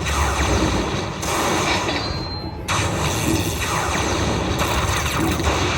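Lightning Dollar Link Chica Bonita slot machine playing its loud electronic bonus music and effects, with repeated swooshing downward sweeps, over casino din.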